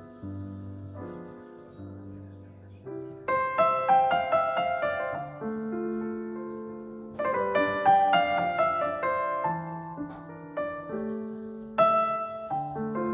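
Background piano music: a slow, gentle piece of single notes and chords that ring and fade, with a louder chord struck about every four seconds.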